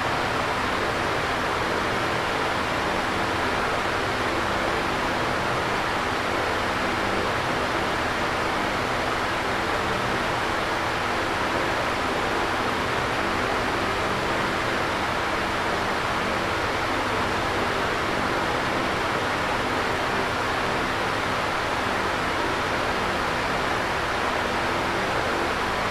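Electric fan running steadily: an even rush of air with a faint low hum beneath it.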